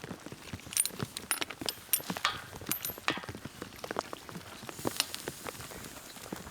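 Scattered, irregular light knocks and clicks over a faint steady hiss.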